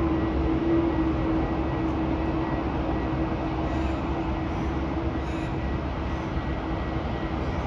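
Distant jet airliner coming in to land: a steady low roar with no sharp events.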